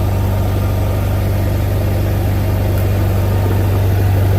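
An engine idling steadily, a constant low hum with an even pulse underneath.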